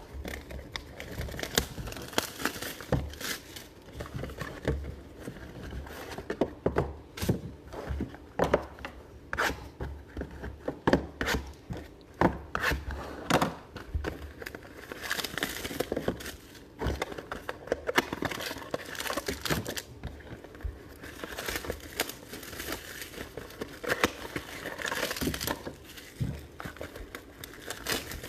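Trading card packaging crinkling and tearing, with many small clicks and taps of cards and wrappers being handled.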